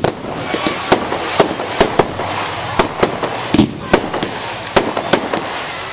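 Fireworks going off: a rapid, irregular string of a dozen or more sharp bangs over a continuous crackling hiss.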